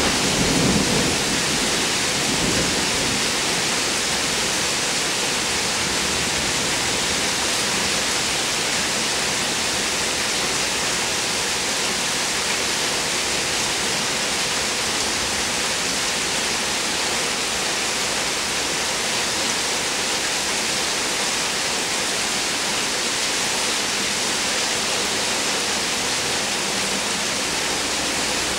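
Heavy rain pouring steadily in an even hiss. A low rumble of thunder swells and fades in the first few seconds.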